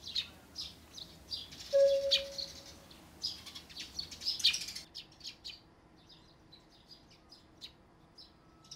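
Small birds chirping, many short high calls in quick succession, thinning to sparser, fainter chirps about five seconds in.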